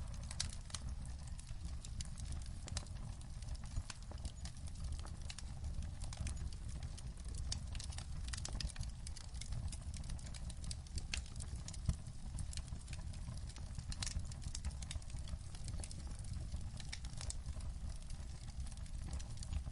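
Wood fire in a fireplace crackling: irregular sharp pops and snaps over a low steady rumble, with one louder pop about twelve seconds in.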